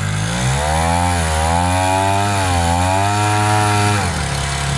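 Small two-stroke brush-cutter engine (40 mm bore) running a shrimp-tail long-tail propeller drive on a vỏ lãi boat under way. Its pitch climbs at the start and wavers up and down as the throttle is worked, then drops to a lower, steadier note about four seconds in.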